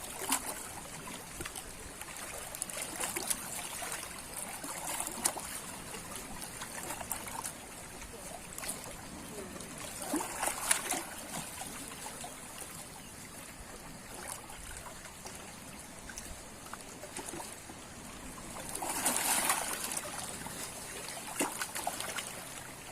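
Seawater lapping and trickling at the shore, with two louder washes, about ten and nineteen seconds in.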